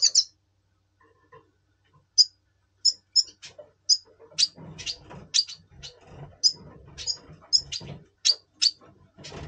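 Red siskin in breeding condition calling: a fast high trill breaks off just after the start, and after a short pause comes a string of short, sharp high chirps, about two a second. Soft low rustling and knocks run under the chirps in the second half.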